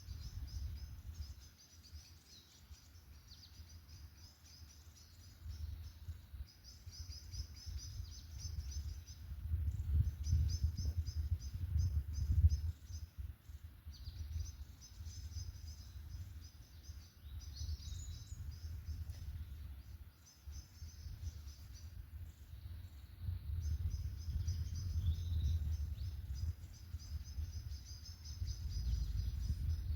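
Birdsong: short high trills repeated again and again, over a low rumble that swells and fades, loudest about twelve seconds in.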